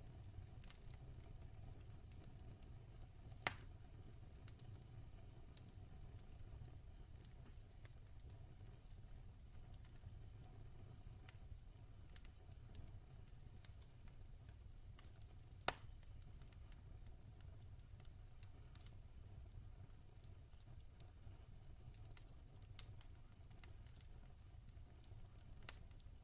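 Log fire crackling softly: scattered faint ticks and two sharper pops, one a few seconds in and one just past the middle, over a steady low rumble.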